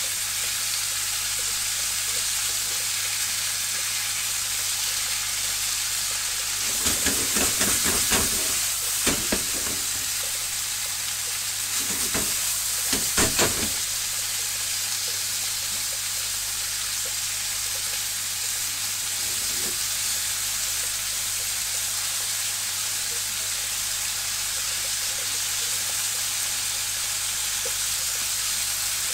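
Chicken skin and green peppers sizzling steadily in a frying pan, with short spells of chopsticks stirring and tossing the food against the pan, once about a quarter of the way in and again just before the middle.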